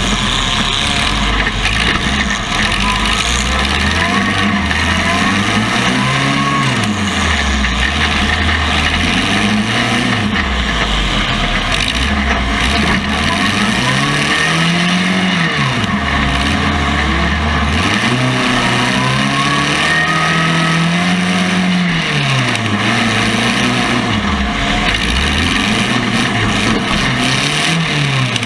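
Compact demolition-derby car engines revving up and down over and over, pitch rising and falling every few seconds as the cars accelerate and back off, over a steady background din.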